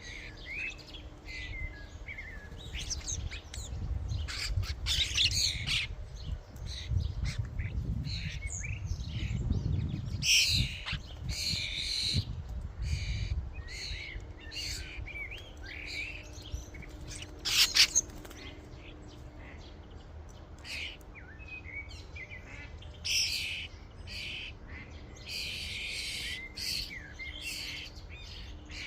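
A flock of European starlings chattering at a feeder: a steady jumble of short squeaky calls, clicks and squawks. A sharp knock stands out about two-thirds of the way through, and a low rumble sits under the calls in the first half.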